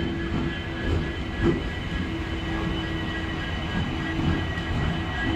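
Passenger train rolling slowly past on departure: a low rumble with irregular wheel knocks over the rail joints, one heavier thump about a second and a half in, and the steady hum of a WDP4D diesel-electric locomotive coupled behind the last coach as it comes by.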